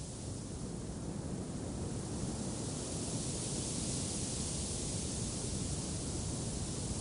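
Wind blowing steadily, a low rumble with a high hiss over it, growing a little stronger about two seconds in.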